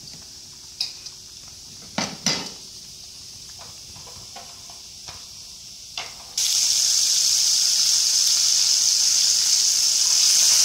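A few short clinks of chopsticks against the aluminium pot, then about six seconds in a tomato dropped into hot oil sets off a sudden, loud, steady sizzle that goes on to the end.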